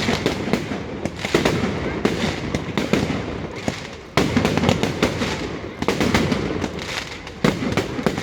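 Fireworks going off in quick succession: a dense run of sharp bangs and crackles, several much louder than the rest.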